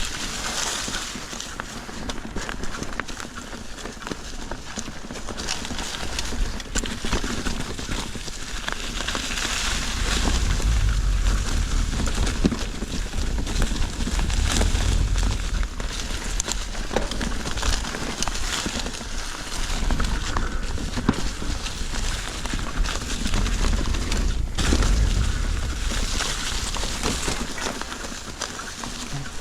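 A mountain bike ridden over a rocky dirt trail: tyres crunching over dirt and rock, and the bike rattling and knocking over the bumps. A steady low rumble of wind on the microphone lies under it.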